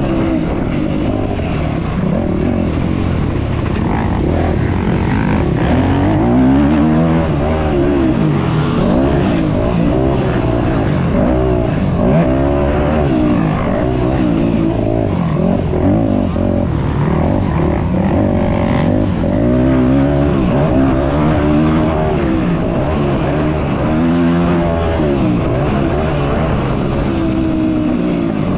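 Yamaha YZ250F four-stroke motocross bike engine revving hard, its pitch climbing and dropping again every couple of seconds as it accelerates and shifts through the gears.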